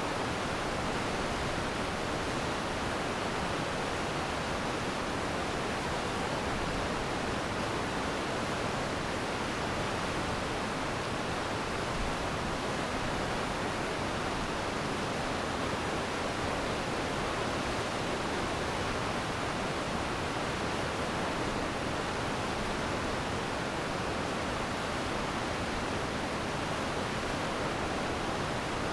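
Glacial meltwater stream rushing steadily, a dense even wash of flowing water with no distinct splashes.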